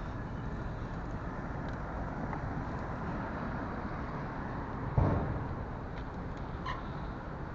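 Steady road traffic noise, with a single sharp thump about five seconds in.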